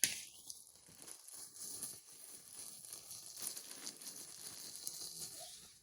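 Plastic packaging rustling and crinkling as it is pulled open, with a sharp click at the start.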